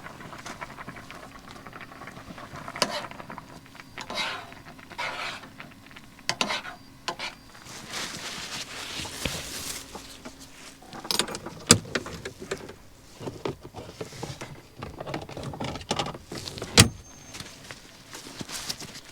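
Objects being handled: irregular rustling and scraping with sharp clicks and knocks, two of them louder, one near the middle and one near the end.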